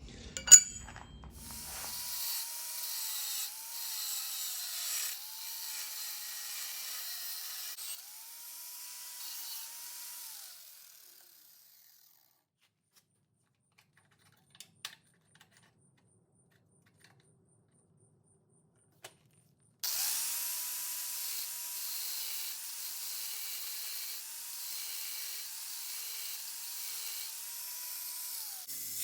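Power tool cutting a Damascus steel knife blank to shape the tip and tang, its high motor whine sagging in pitch each time it bites into the steel and recovering. It runs in two stretches with a pause of several seconds between, broken only by a few clicks.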